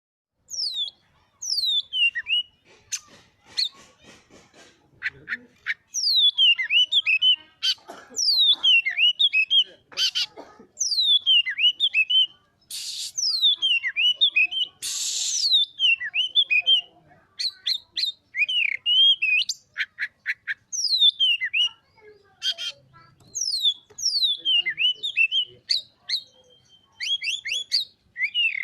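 Oriental magpie-robin (kacer) singing a long, loud, varied song: repeated whistled notes that slide down in pitch, quick clicking runs and trills, and two short harsh rasping notes about halfway through.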